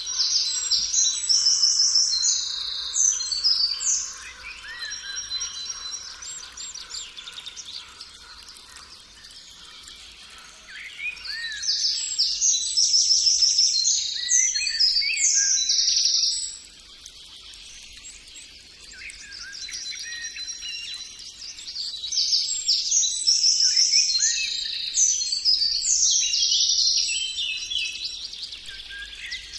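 Songbird singing: three long runs of rapid, high chirps and trills, with softer chirping in between.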